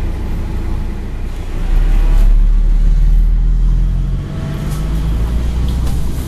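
Scania N113 double-decker bus's diesel engine running under way: a deep, low rumble that grows louder about two seconds in and eases off a little after four seconds, leaving a steadier engine hum.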